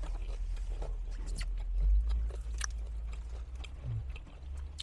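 Close-up chewing and biting into Korean fried chicken, with scattered short crisp crunches over a low steady hum.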